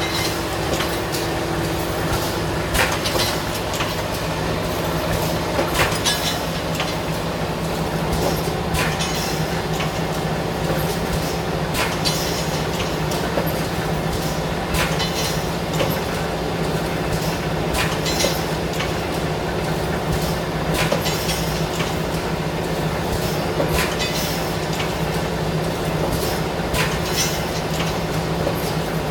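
Automatic pneumatic steel wire mesh welding machine running through its cycle: a steady hum with a sharp clack about every three seconds.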